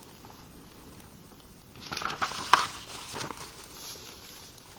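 Paper rustling and crinkling as a picture book's page is turned, about two seconds in, with one sharp crackle in the middle.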